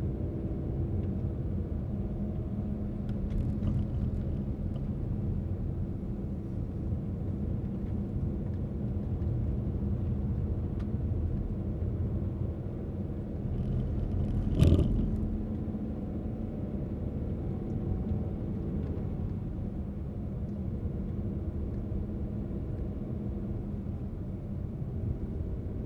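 Car driving along a road: a steady low rumble of engine and tyres with a faint engine drone. A single sharp knock is heard a little past halfway.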